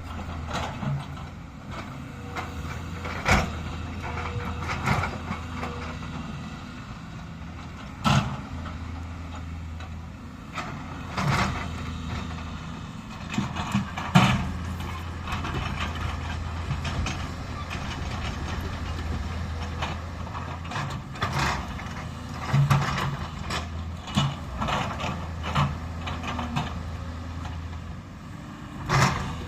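JCB excavator's diesel engine running steadily at work, with repeated sharp knocks and clanks from the bucket and arm as it digs.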